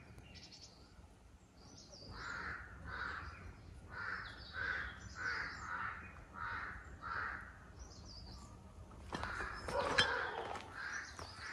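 A bird calling over and over, about eight calls in five seconds, with fainter higher chirps from small birds. Near the end, footsteps on the ground.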